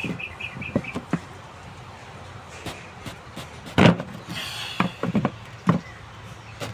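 Irregular sharp knocks and clanks, the loudest about four seconds in and several more close together after five seconds, with a short run of high chirps at the very start.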